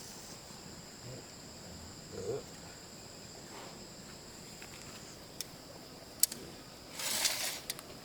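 Insects chirring steadily in a high, even drone. Scattered sharp clicks and a soft knock can be heard, and there is a short louder rustle or scrape near the end.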